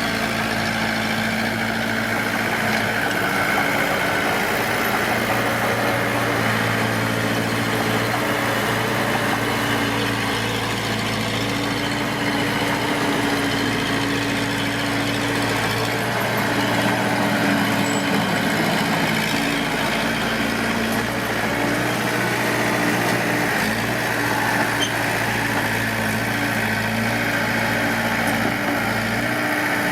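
Heavy diesel engine of earthmoving machinery running steadily at a near-constant speed.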